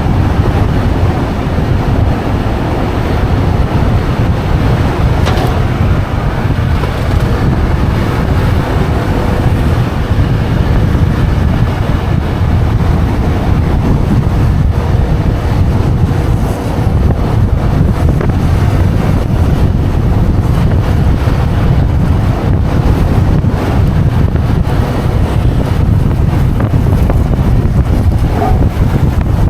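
Wind rushing over the microphone of a moving motorbike, a steady low rumble, with the bike's engine running beneath it.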